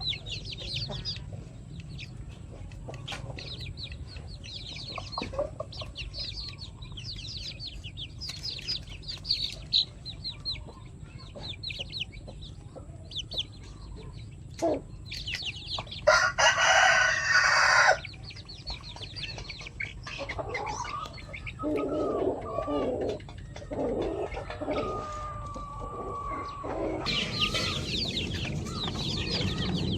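A flock of chickens clucking and calling, with a rooster crowing once for about two seconds a little past the middle. Short high chirps run throughout.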